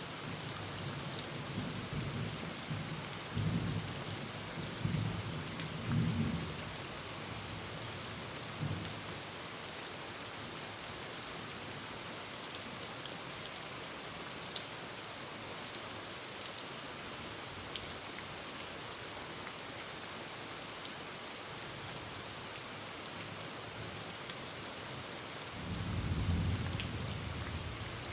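Heavy rain on a tin roof, a steady hiss dotted with sharp drop ticks. Low thunder rumbles roll through in several swells during the first nine seconds and build again near the end.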